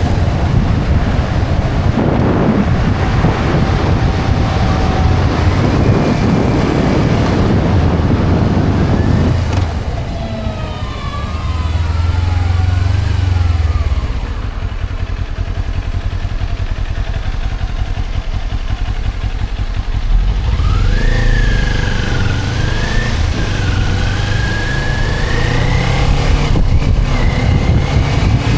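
Motorcycle engine running under way, with heavy wind noise on the microphone for the first third. The ride then eases and the rush drops. About two-thirds through, the engine note rises and wavers as the bike accelerates.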